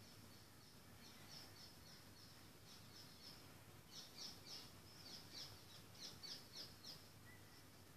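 Faint bird chirping: a run of short, high, falling chirps, several a second, louder in the second half, over a faint low hum.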